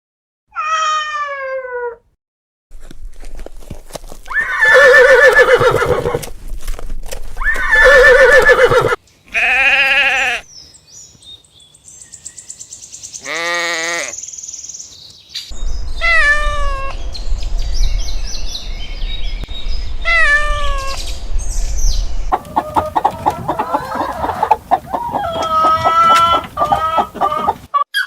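A string of farm-animal calls from separate clips, the loudest being two long wavering goat bleats about four and seven seconds in, followed by a run of shorter falling calls.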